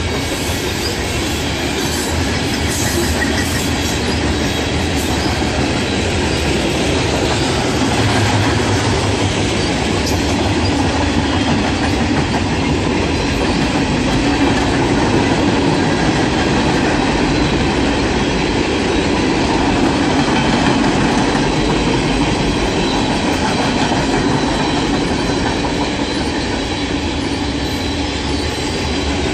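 Freight train cars rolling past at close range: a steady, loud rumble and clatter of steel wheels on the rails that keeps up evenly throughout.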